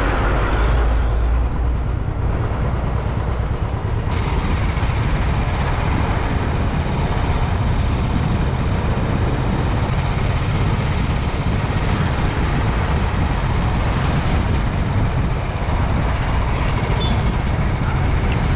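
Motorcycle engine running steadily while under way, with road noise.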